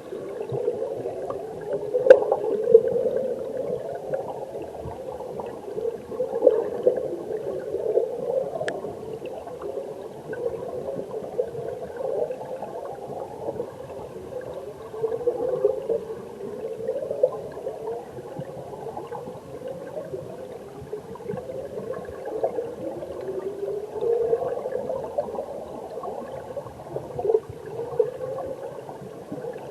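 Underwater sound of a mountain stream heard through a submerged camera: a continuous bubbling, gurgling rush of current with repeated rising swoops and surges. Two sharp clicks stand out, about two seconds in and near nine seconds.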